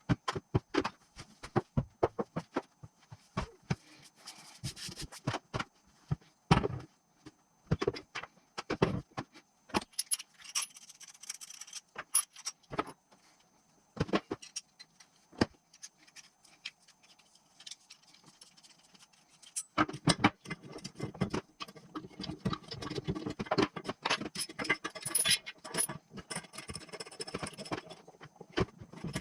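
Metal tools and engine parts clinking, tapping and rattling in irregular knocks, turning into a denser, continuous jangling about two-thirds of the way through.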